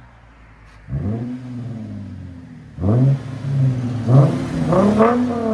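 Lexus IS 250's 2.5-litre V6 revving through an exhaust with its resonator and rear mufflers deleted. A low idle rises into one rev about a second in and falls back, then several quick, sharp throttle blips follow in the second half, with a deep tone.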